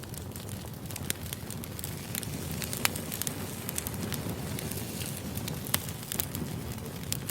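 Firewood burning and crackling: irregular sharp pops and snaps over a steady low rumble of the flames, with one louder pop about three seconds in.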